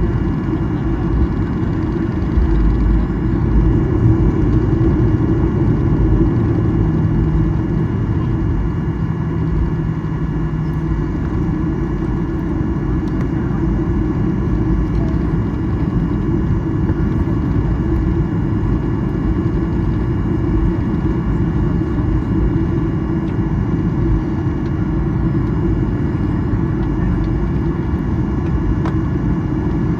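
Cabin noise of a Boeing 737-800 taxiing: the steady hum of its CFM56-7B engines at idle over a low rumble, with a few faint steady whining tones above.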